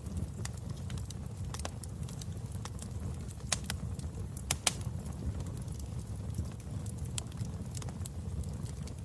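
Wood fire in a fireplace burning with a steady low rumble, crackling and popping at irregular moments; the sharpest pops come a little past the middle.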